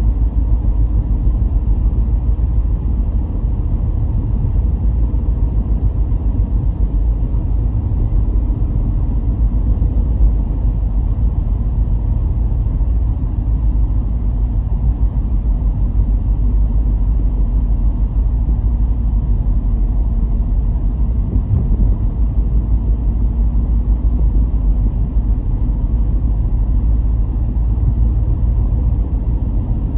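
A car driving at a steady pace: an even, low rumble of engine and tyre noise that holds without change.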